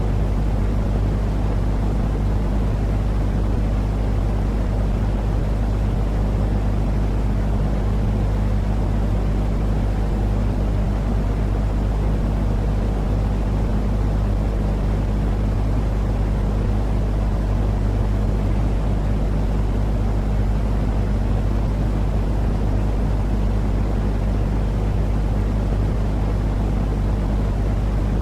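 Sleep white-noise track: a steady, unchanging low rumbling noise with a constant low hum beneath it, heavier in the bass than in the treble.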